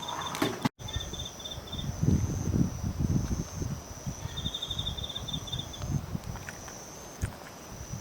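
Autumn crickets singing: a high pulsed trill in bursts of about a second and a half, repeating, over a steady, higher continuous trill from other insects. Low thumps and rustles come and go between the trills.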